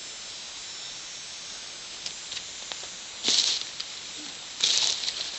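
Footsteps crunching and rustling through dry leaf litter and twigs, in two short bursts about three and five seconds in, with a few light snaps, over a steady hiss.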